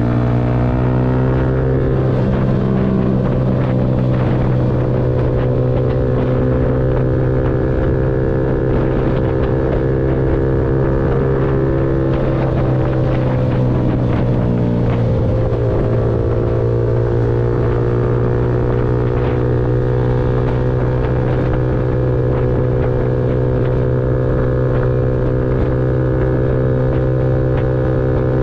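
Yamaha MT-125's single-cylinder four-stroke engine running steadily, its pitch rising about two seconds in, then dropping and climbing again between about twelve and sixteen seconds in as the revs change.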